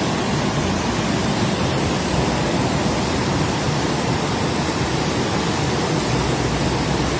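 Rushing floodwater: a loud, steady rush of noise without a break.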